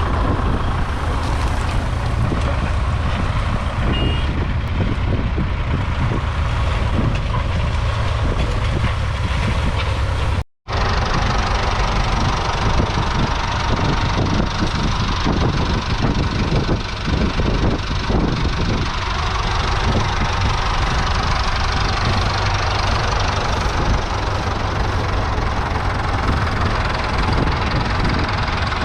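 Twin 3.8-litre four-cylinder diesel engines of a 1966 Doe 130 tractor running steadily under way. The sound breaks off for a moment about ten seconds in, then carries on.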